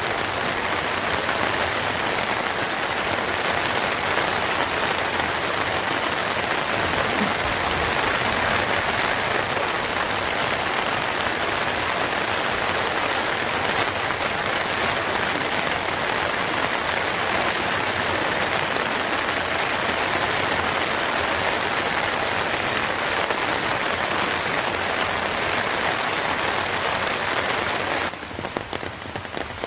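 Steady rain falling, an even hiss of dense drops that turns somewhat quieter shortly before the end.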